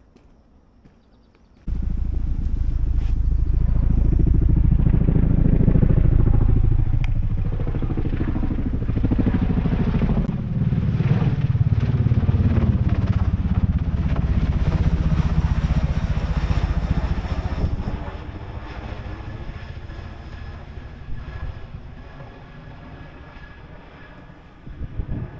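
Motorcycle engine starting up loud and suddenly, its pitch rising and falling as it revs and pulls away, then dropping off and fading away near the end.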